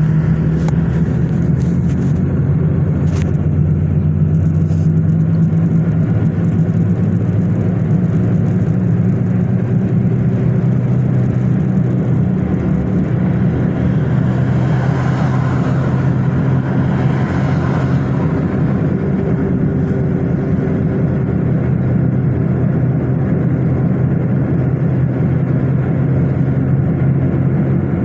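Car being driven: a steady low drone of engine and road noise, with a brief swell of higher hiss around the middle.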